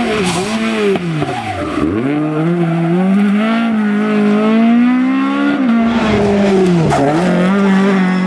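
Toyota Corolla AE86 rally car's 2-litre four-cylinder engine driven hard. The revs drop steeply about two seconds in as it slows for a corner, then climb again as it accelerates. Near the end there is a second quick dip and recovery at a gear change.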